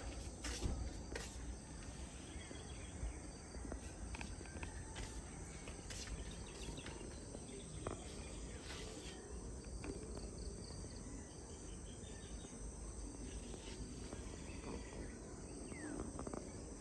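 Insects chirring steadily in a high, thin drone, with a few scattered clicks and a low rumble underneath.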